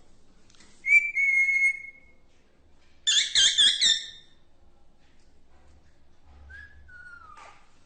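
Parrot whistling: a long held whistle about a second in, a loud warbling run of about four notes around three seconds in, and a fainter falling whistle near the end.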